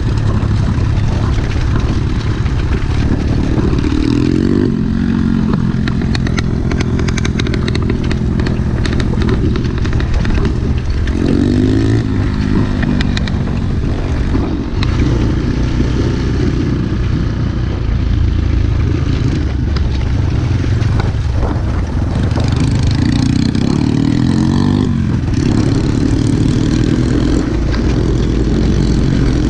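Single-cylinder four-stroke pit bike engine running under way, its revs rising and falling a few times as the bike is ridden.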